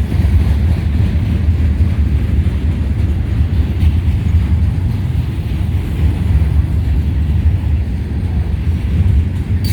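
Loaded freight train of gondola cars rolling past, a steady, heavy low rumble of wheels on rail that is really loud.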